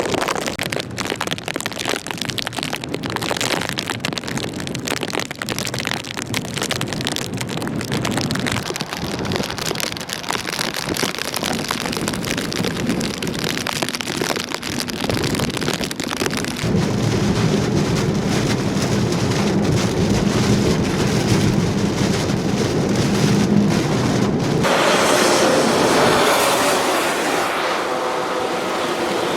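Heavy tropical-storm rain, wind and spray, with a deeper rumble joining about two-thirds of the way through. Near the end the sound changes abruptly to a steady motor run with a pitched whine.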